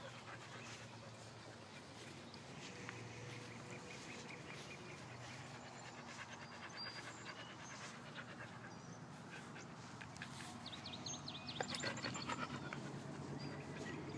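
A dog panting softly in quick, even breaths, growing louder for a couple of seconds near the end.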